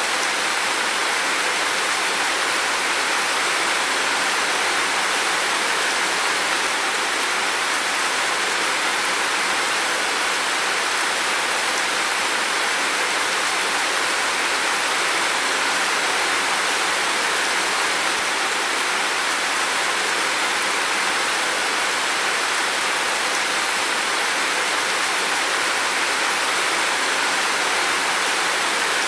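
Heavy rain falling in a steady, unbroken hiss, with no distinct drops or thunder.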